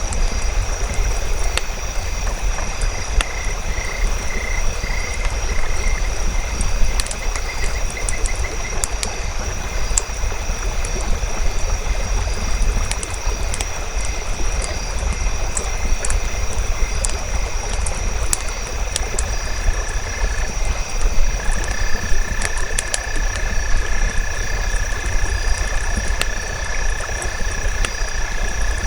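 Campfire crackling with scattered sharp pops over a steady low rumble and hiss, layered with a nature chorus of high, steady animal calls. A pulsing trill runs from about three seconds in, and a long steady call sets in about two-thirds of the way through.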